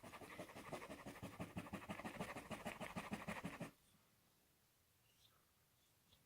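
A small brush scrubbing the plastic interior parts of a diecast toy in soapy water, with rapid back-and-forth strokes that stop a little under four seconds in. After that come only a few faint clicks.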